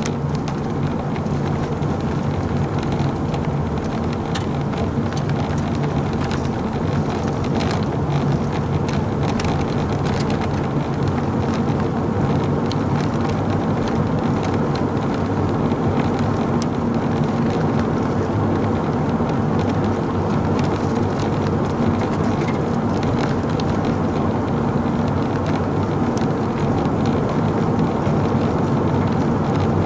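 Steady drone of a running vehicle engine with road noise, holding an even pitch and level throughout.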